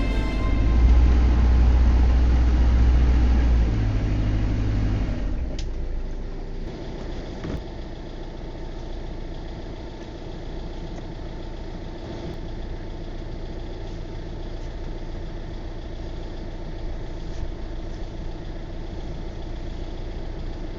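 Hire cruiser's engine running steadily. A loud, deep rumble for the first five seconds or so, then a quieter, even running sound at low speed.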